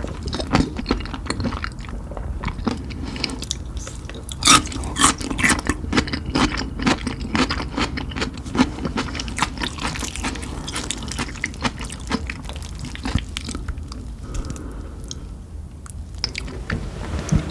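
Close-miked chewing and biting of spicy chicken: irregular crunchy, wet clicks from the mouth, thinning out briefly near the end.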